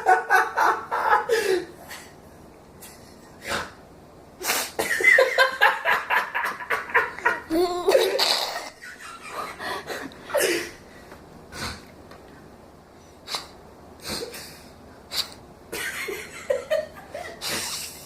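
Bursts of laughter alternating with a string of short, sharp nasal blasts, a funny snorting nose noise made again and again.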